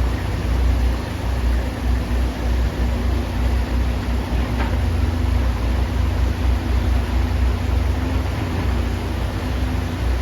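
Excavator's diesel engine running steadily, with a deep rumble and a steady hum under a broad noisy wash.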